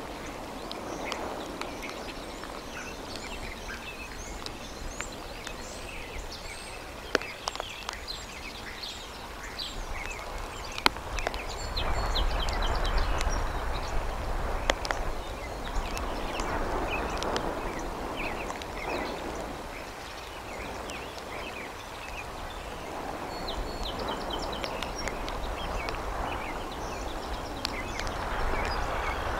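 Rain and wind on an outdoor nest-cam microphone: a steady rushing noise that swells and fades several times, with scattered sharp ticks and faint bird chirps.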